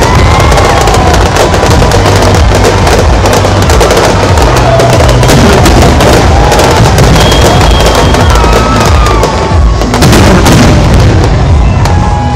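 Aerial fireworks display: a dense run of loud bangs and crackling as shells burst overhead, going on without a break.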